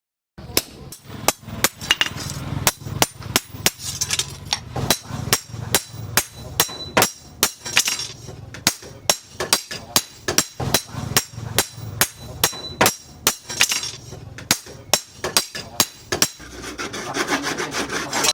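Hand-tool strokes working the knife, a sharp click about three times a second with scraping between, growing into denser continuous scraping near the end.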